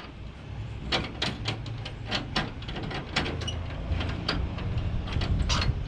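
Flatbed securement gear being handled: an irregular string of sharp clicks and knocks over a low steady rumble that gets louder about halfway through.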